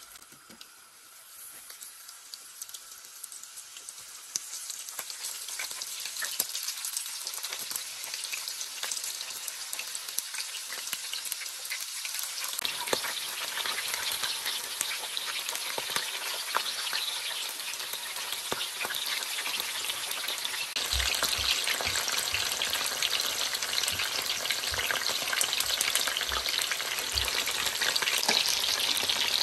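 Hot oil sizzling in a frying pan as skewered chicken tikka pieces with onion shallow-fry, the sizzle starting about a second in and growing steadily louder as more pieces go into the oil. A few low knocks come in the later part.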